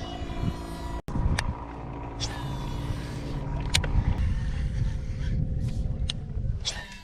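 A boat's motor hums steadily over a low rumble, the hum cutting off about four seconds in, with a few sharp clicks scattered through.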